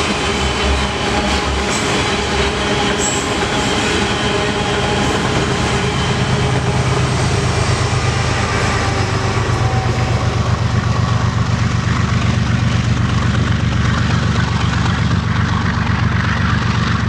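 BNSF freight train of autorack cars rolling past: a steady rumble of steel wheels on rail with some clickety-clack over the rail joints.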